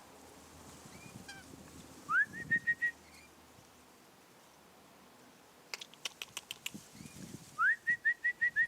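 A person whistling a bird-calling signal twice: each time a rising whistle followed by four or five short whistles on the same note. In between comes a quick run of sharp clicks.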